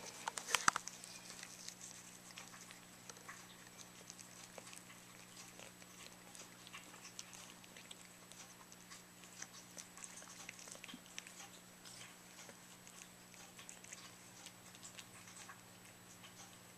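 Pets chewing and crunching freeze-dried chicken treats: an irregular run of small crisp crunches and clicks, loudest just under a second in, over a faint steady hum.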